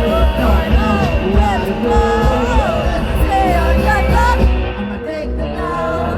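Loud rock music: a band playing with a singer's voice gliding over a heavy bass. The singing stops about four and a half seconds in while the band keeps playing.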